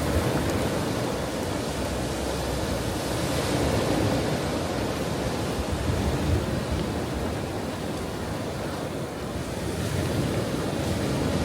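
Ocean waves breaking and washing on a shore: a continuous rush of surf that swells and eases, softest a little past the middle and building again near the end.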